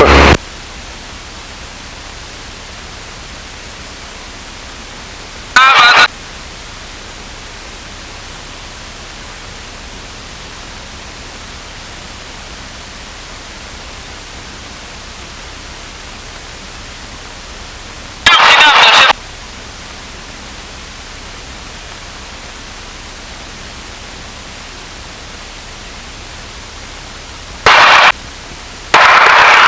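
Steady hiss of an aviation radio receiver on an idle frequency, broken four times by brief loud bursts of garbled radio transmission: once about six seconds in, once near the middle, and twice close together near the end.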